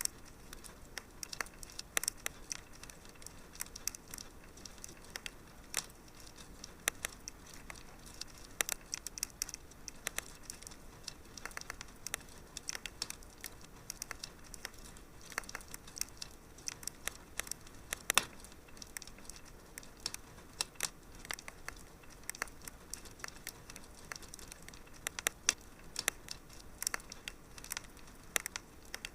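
Fire crackling in a fireplace: irregular sharp pops and snaps over a faint hiss, with one louder pop about eighteen seconds in.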